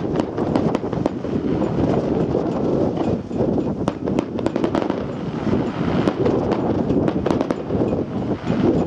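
Fireworks display: many quick, irregular cracks and bangs going off in a dense run, over heavy wind noise buffeting the microphone.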